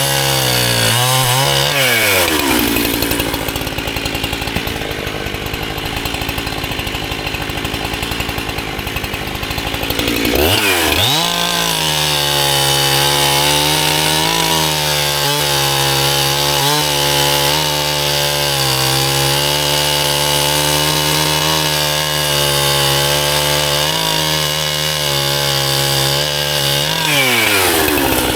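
Gas chainsaw engine dropping to idle, idling for several seconds, then revved up about ten seconds in and held at full throttle for about fifteen seconds while cutting firewood, then falling back to idle near the end.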